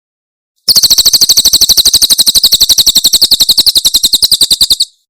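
Cililin bird singing its 'tembakan' phrase: a rapid, even burst of about ten sharp high notes a second, starting about a second in and lasting about four seconds before stopping suddenly.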